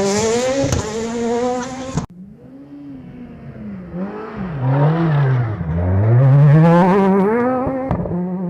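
Rally car engines accelerating hard, the note climbing steeply. About two seconds in the sound cuts abruptly to another pass, where the engine note rises and falls several times on and off the throttle, then climbs long and loud through a gear before cutting off near the end.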